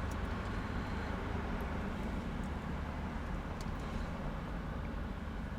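Steady low hum inside a stationary car's cabin, with a few faint light ticks over it.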